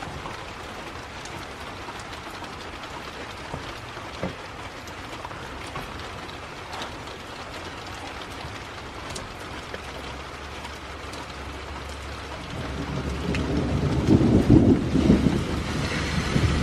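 Steady rain falling, with a few scattered drop taps. About twelve seconds in a low rumble of thunder builds and grows loud toward the end.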